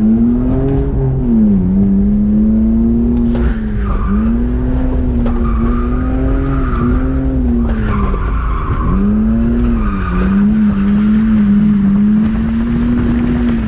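BMW E46 drift car's engine held high in the revs while drifting. Its note dips briefly a few times and climbs back, with tires squealing in several stretches.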